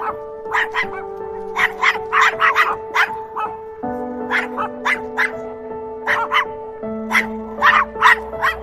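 Dogs barking and yipping in play: short, sharp barks come in quick runs of two to five with brief gaps between them. Background music with slow held chords sounds underneath.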